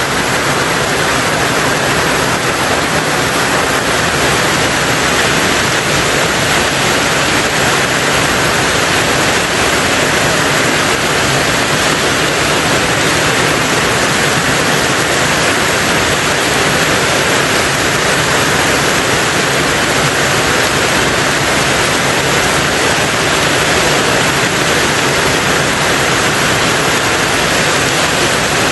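Heavy rain falling on a tin roof, a steady dense hiss without breaks or single drops standing out.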